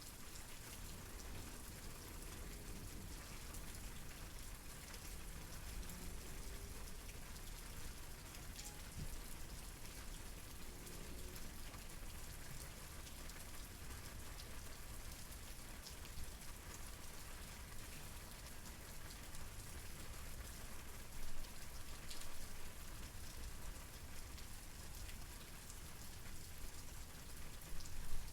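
Steady rainfall with individual drops pattering on a surface, and a few slightly louder drop hits about 21 seconds in and near the end.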